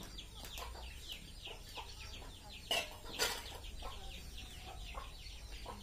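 Birds chirping and clucking: many short, falling high chirps in quick succession, with two brief sharp knocks about three seconds in.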